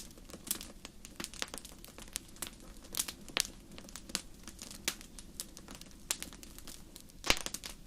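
Fire in a fireplace crackling, with irregular sharp pops and one louder pop near the end.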